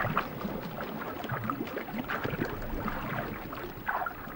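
Underwater water sounds of a diving gannet: irregular bubbling and gurgling.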